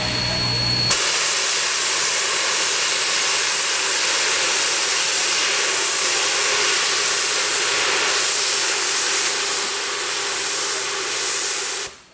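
Narrow-gauge steam locomotive venting steam: a loud, steady hiss that starts suddenly about a second in and cuts off abruptly near the end.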